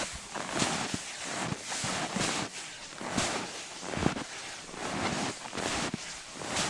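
Footsteps crunching through cold snow, a crunch every half second to a second.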